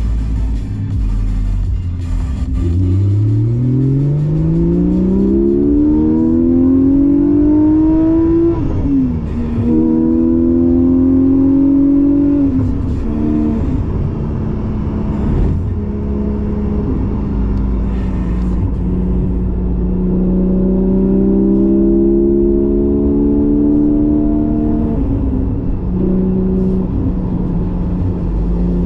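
Porsche 718 GTS 4.0's flat-six engine through a Kline stainless exhaust with its valves open, accelerating hard through the gears. The pitch climbs for several seconds and drops at an upshift, then climbs again and drops at a second shift. After a spell of steadier running it climbs once more and drops at another shift near the end.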